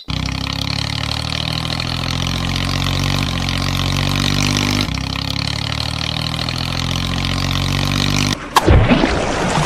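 Tractor engine running steadily, its note shifting slightly a couple of times. Near the end it breaks off into a sudden sweeping sound that dips and climbs in pitch.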